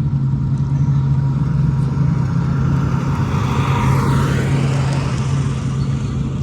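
Drag racing engines running in a steady, loud low drone, with a passing car's note swelling and falling in pitch about three to four seconds in.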